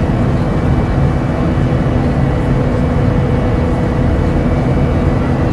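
Steady drone of a jet airliner in flight: an even rushing noise with a few constant hum tones, unchanging throughout.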